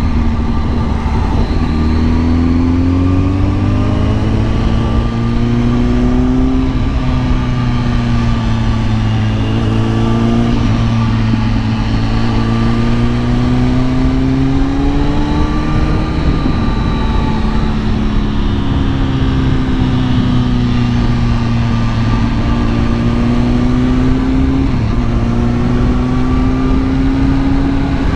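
Kawasaki ZX-10R's inline-four engine running under way, its revs rising and falling gently every few seconds, over a steady rush of wind and road noise.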